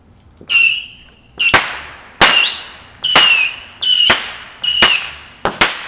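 A consumer fireworks cake firing a rapid series of about eight shots, under a second apart. Each shot is a sharp bang with a short high whistle that fades.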